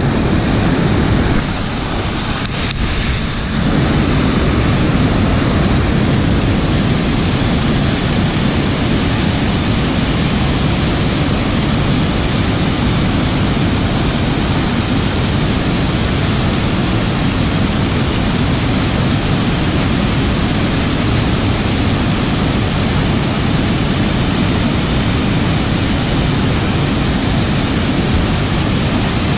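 Loud, steady rush of falling water, dipping briefly about two seconds in and then holding even.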